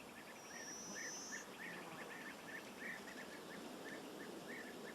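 Small birds chirping faintly: short calls repeated a few times a second, with one brief high whistle in the first second.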